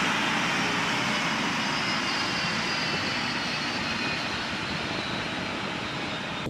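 F-35B Lightning II fighter jet's engine running loud and slowly fading away, a broad rushing roar with faint whine tones gliding down in pitch as it moves off.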